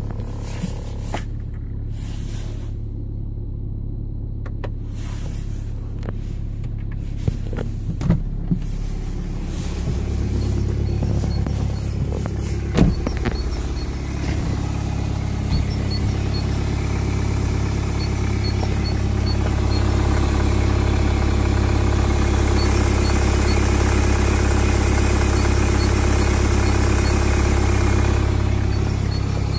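BMW 120d's four-cylinder diesel engine running after a cold start, a steady low drone. It grows louder about ten seconds in and again around twenty seconds, then eases near the end. A few short knocks come in the first half.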